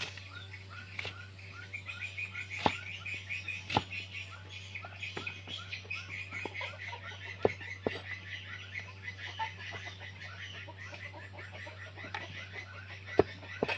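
Rapid, repeated chirping animal calls, with a steady low hum and a few sharp clicks.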